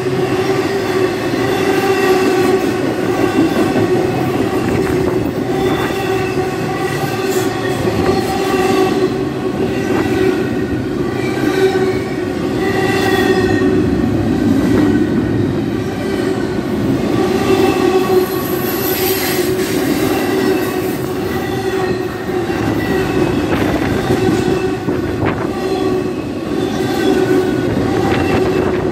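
Double-stack intermodal freight train rolling past close by: a continuous rumble of wheels on rail, with a steady low tone running through it and higher ringing tones that come and go every second or two.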